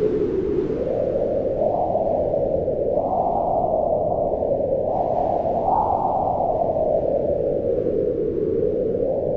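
Howling wind, a steady rush whose pitch rises and falls in slow gusts.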